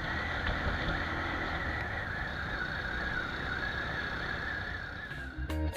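Steady motorcycle riding noise through an action camera's built-in microphone: a rush of wind and engine running at a constant pace, breaking off near the end.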